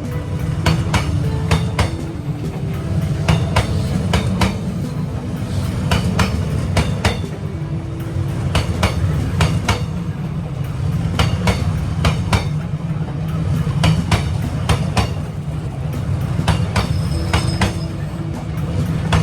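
Train passing at very close range: a loud, steady rumble with a long run of sharp wheel clacks over the rail joints.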